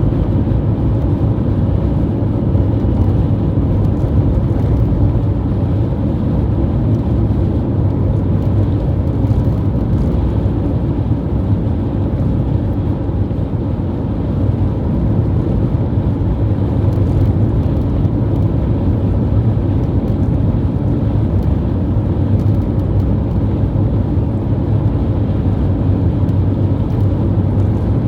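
High wind blowing onto the microphone: a loud, steady low rumble.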